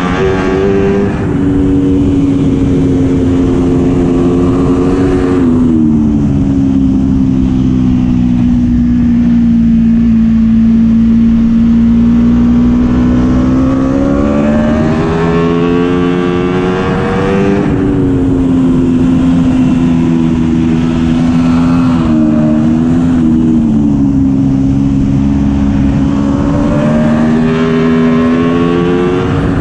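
Racing superbike's four-cylinder engine heard from its onboard camera at speed. The engine note sinks slowly as the bike slows into a long bend, holds steady low through it, then climbs hard under acceleration, with a sudden drop at an upshift and a second climb near the end.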